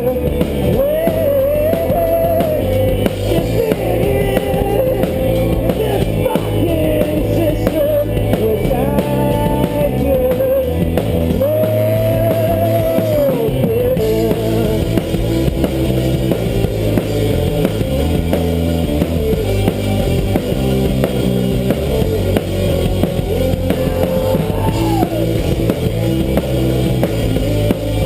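Live rock band playing, with a drum kit and guitars and a gliding melodic lead line through roughly the first half.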